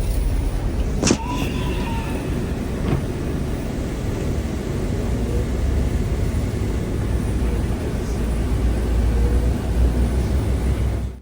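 Steady low rumble of a city bus in motion, heard from inside, with a sharp knock about a second in and a lighter one near three seconds.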